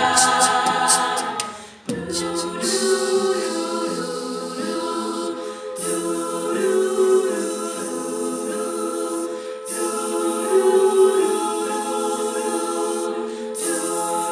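A cappella group singing held wordless chords with vocal percussion: a run of sharp hi-hat clicks at first, a brief dip about two seconds in, then a steady cymbal-like hiss over the chords.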